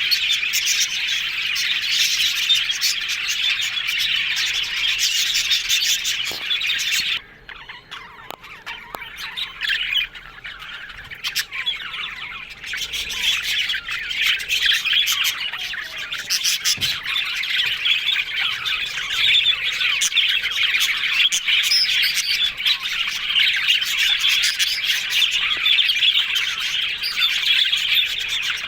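Budgerigars chattering and warbling continuously, a dense mix of chirps and squawks. About a quarter of the way in it drops suddenly to a quieter, sparser chatter, then builds back up to full chatter.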